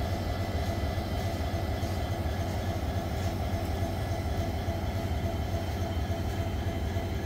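Railway train noise: a steady low rumble with a constant hum above it.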